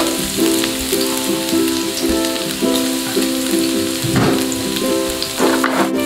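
Minced garlic and shredded ginger sizzling in hot oil in a wok, a steady frying hiss. Background music with plucked-string notes plays over it.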